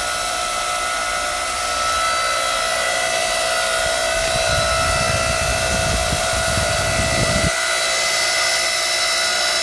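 Electric motor and hydraulic pump of a 7-ton electric log splitter running with a steady whine. About four seconds in a low rumbling under load joins it as the ram drives into a log, cutting off suddenly about three-quarters of the way through as the log splits.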